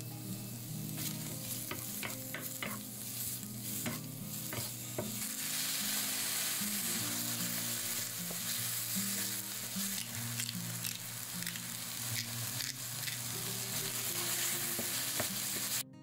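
Mushrooms and corn kernels sizzling in hot oil in a frying pan, stirred with a spatula that gives scattered scraping clicks against the pan. The sizzle cuts off suddenly just before the end.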